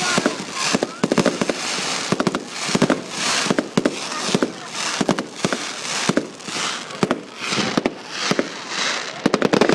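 Fireworks going off in a steady run: clusters of sharp bangs and pops about once or twice a second, with a crackling hiss between them.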